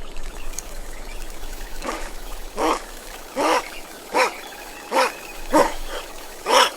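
A puppy barking: a string of about seven short, high yips at a steady pace, starting about two seconds in.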